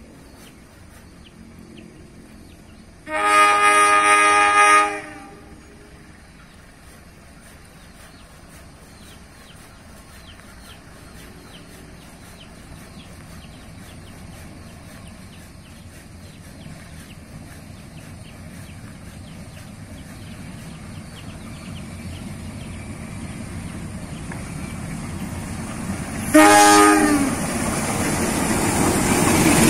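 Diesel locomotive hauling a passenger train sounds its horn, a chord of several notes, for about two seconds a few seconds in. Its rumble then grows steadily louder as it approaches, and near the end it gives a second, shorter horn blast.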